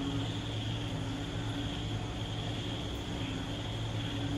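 Moderate rain falling steadily at night, with a continuous high-pitched chorus of night creatures and a low steady hum underneath.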